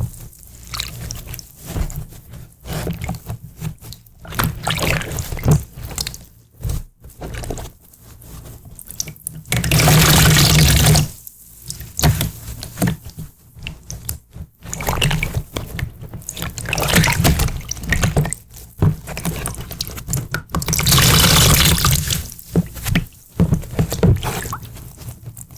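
Water pouring and dripping, with scattered drips and splashes and two steadier pours, one about ten seconds in and a longer one about twenty-one seconds in.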